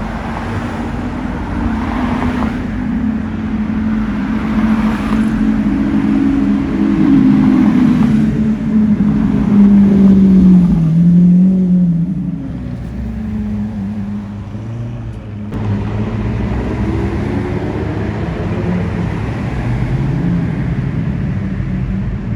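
Car engine running loudly, its note rising and falling as it revs. It is loudest about ten seconds in, then drops away suddenly and settles to a lower, steadier note.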